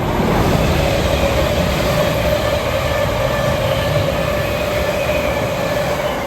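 Thameslink Class 700 electric multiple unit passing through on the line below, its noise swelling in at the start and falling away at the end, with a steady whine over the rumble.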